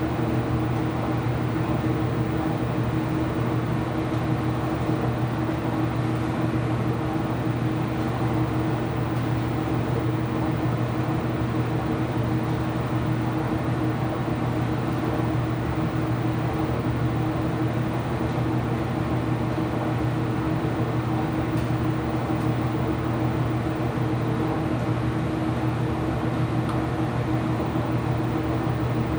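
Ipso washing machine running with a steady mechanical hum: a low drone with a steady higher tone above it, even throughout.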